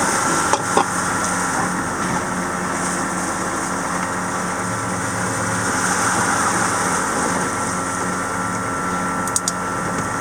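Steady hum of onboard machinery running below deck, with a few sharp metallic clicks under a second in and again near the end.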